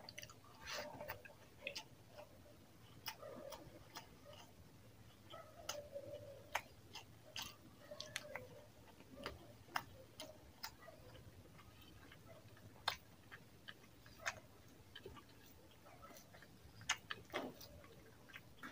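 Close-miked chewing of rice and chicken curry eaten by hand: many irregular, quiet, wet mouth clicks and lip smacks.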